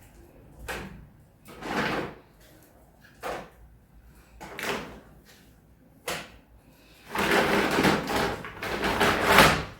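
Groceries and their packaging being handled during unpacking: a few short rustles and knocks, then a longer stretch of rustling starting about seven seconds in.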